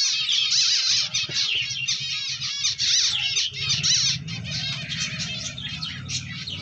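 Many small cage birds, zebra finches among them, calling at once in a dense, continuous chatter of short, high, nasal calls. A low steady hum runs underneath and grows louder about halfway through.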